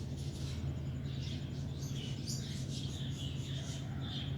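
Small birds chirping with short, irregular high calls, over a steady low hum.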